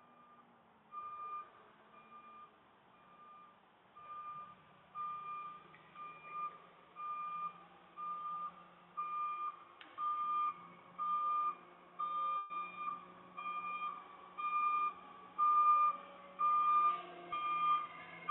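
Garbage truck's reversing alarm beeping steadily, growing louder as the truck backs closer, over the faint hum of its engine.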